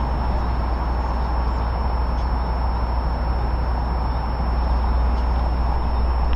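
Steady low rumble of a vehicle running, even in level throughout, with a thin steady high whine over it.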